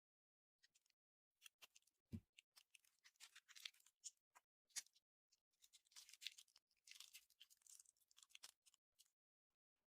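Slime being pressed and stretched by hand, giving quiet, rapid clicking and crackling pops in clusters with short pauses.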